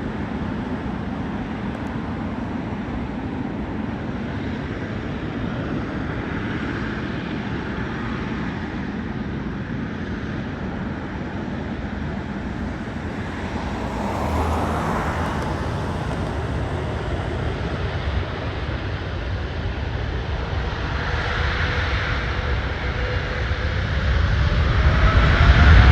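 Airliner engines running with a steady rush, a faint whine rising slowly in pitch over the last several seconds while the sound grows much louder near the end.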